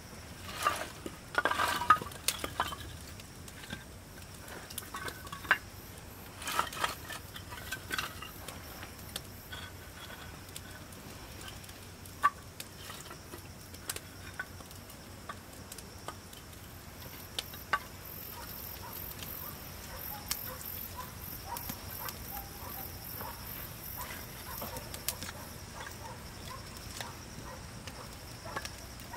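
Intermittent clatter and sharp clicks of small objects being handled, busiest in the first two seconds and again around seven seconds in. From about halfway through, a high pulsing chirr runs underneath.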